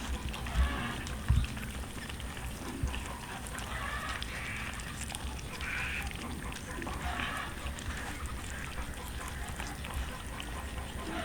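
Several cats eating roast chicken, with short animal calls from the cats over the feeding.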